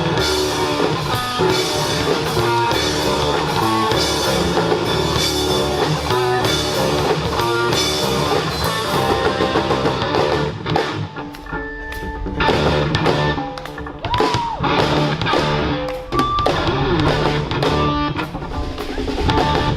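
Live rock band playing: electric guitar, bass guitar and drum kit. The sound thins out briefly about halfway through, then the full band comes back in.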